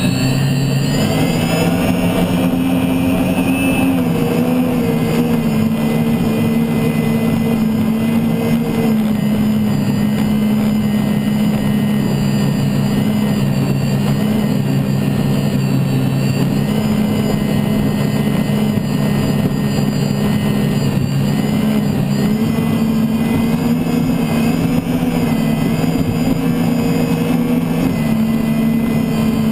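Turbine engine of an unlimited hydroplane running at racing speed, heard from onboard: a loud, steady whine with several held tones over rushing noise. The tones shift in pitch briefly in the first few seconds, then hold.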